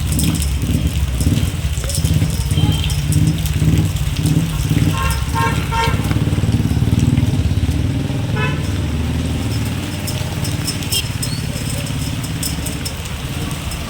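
Road traffic: a motor vehicle's engine running close by, with a run of short horn beeps about five seconds in and one more a few seconds later.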